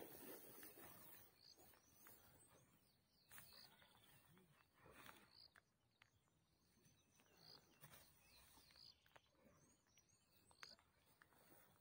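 Near silence in open bush: faint bird chirps repeating every couple of seconds, with a few soft rustles in the grass.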